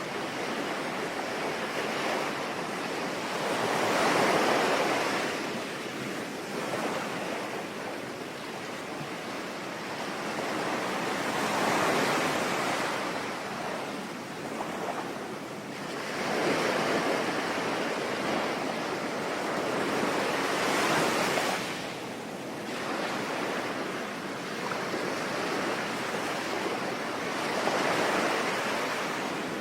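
Ocean waves breaking on a shore, swelling and falling back in slow surges every several seconds, over a steady hiss of rain.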